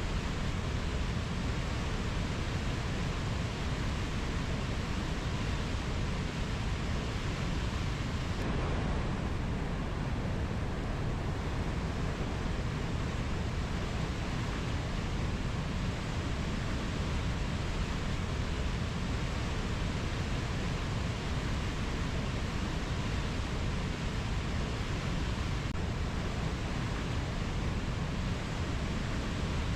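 Steady rushing rainforest ambience, a constant even noise heaviest in the low end, with no distinct bird or insect calls standing out.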